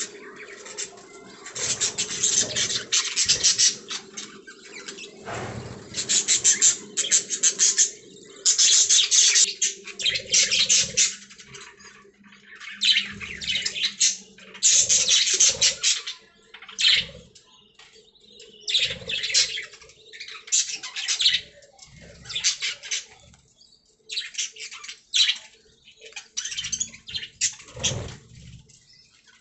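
Pet budgerigars (budgies) chirping and warbling in a fast, chattering stream, in repeated bursts of a second or two with short pauses between.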